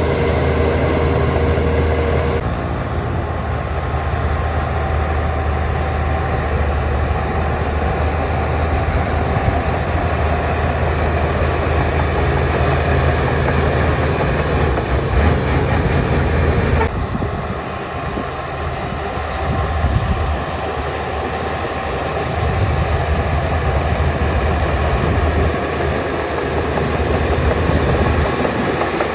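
Heavy diesel earthmoving machinery running steadily with a deep engine rumble and a broad mechanical clatter. Its sound changes abruptly twice, about two seconds in and again about halfway through.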